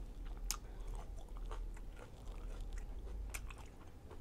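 Close-miked chewing of a soft chicken fajita, with occasional small wet mouth smacks and clicks.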